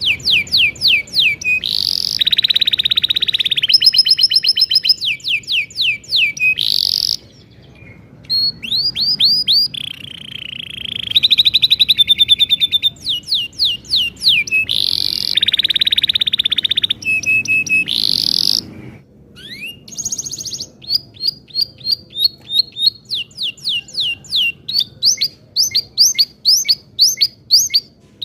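Domestic canary singing a long song: fast buzzing rolls alternate with runs of quick sweeping chirps. The song breaks off briefly about seven seconds in and again just before twenty seconds, then carries on.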